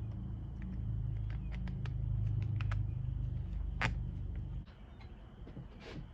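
A motor runs with a steady low hum, then cuts off suddenly about four and a half seconds in. Sharp clicks and knocks sound throughout, the loudest just before the hum stops and again near the end.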